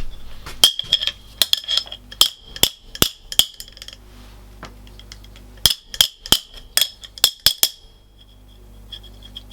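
Hammer blows on a rusted, seized metal wrench to free it: sharp metallic clinks with a ringing tone. They come in two runs of rapid strikes, the first starting under a second in and the second about halfway through, with a few faint taps near the end.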